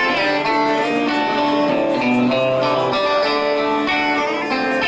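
Guitar playing the intro of a rock song, with chords held and changed every second or so and no singing.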